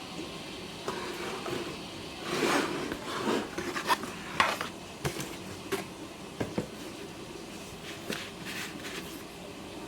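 Packaging being handled during an unboxing: rubbing and rustling about two to three seconds in, then a scattering of light clicks and taps, over a steady background hiss.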